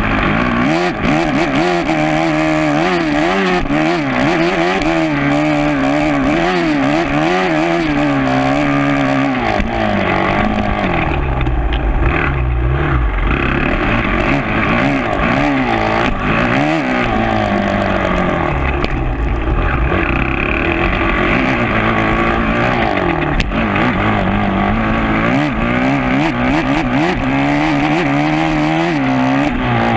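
2012 Kawasaki KX450F's single-cylinder four-stroke motocross engine being ridden hard, its revs climbing and dropping again and again through the gears.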